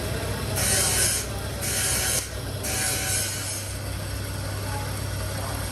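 Three short, harsh mechanical rasping bursts, each under a second long, over a steady low machine hum.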